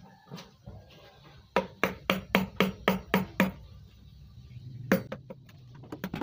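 Wood-carving chisel driven into wood by mallet blows: a quick run of about eight sharp taps, roughly four a second, then a single tap a second and a half later, and faster tapping starting near the end.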